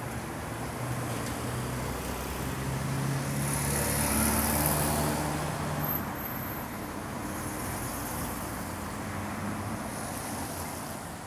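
Street traffic: a motor vehicle passes close by, its engine and tyre noise swelling to a peak about four seconds in and then fading back into a steady traffic hum.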